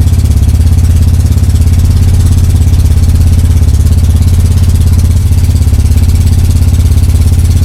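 Tour boat's engine running loud and steady under way, a fast low pulsing beat. It is direct-drive, with no gearbox and no neutral. The note shifts slightly about five seconds in.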